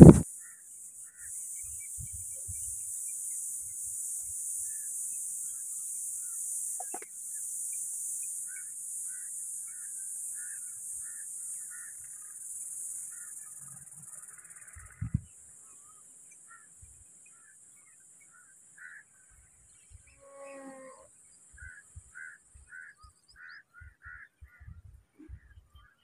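Small birds chirping in short, repeated notes over a steady high hiss that fades out about two-thirds of the way through. A call slides down in pitch about three-quarters of the way in, and there is a single low thump about halfway.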